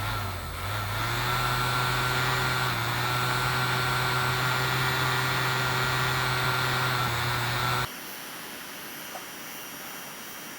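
Steady mechanical hum with a high whine over it, like a running motor or engine; about eight seconds in it drops suddenly to a quieter, thinner hiss.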